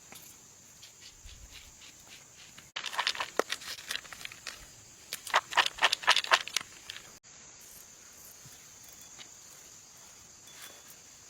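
Outdoor ambience with a steady high hiss, broken by a few seconds of dense sharp crackling and rustling, like dry plant material being snapped or handled, loudest about six seconds in.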